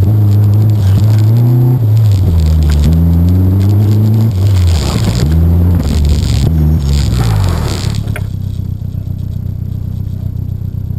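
Caterham Seven's engine revving up and dropping back again and again, short bursts of acceleration and lifts between the autotest cones, with a rushing hiss from about four and a half to eight seconds in. About eight seconds in it falls to a low steady idle, and the revs climb again at the very end.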